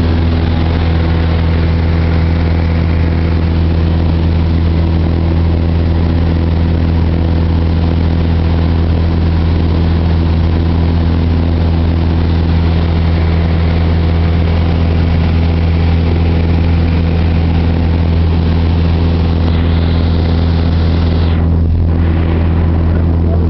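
Cessna 172's piston engine and propeller droning steadily in flight, loud and unchanging, with a low engine hum under a wash of airflow hiss.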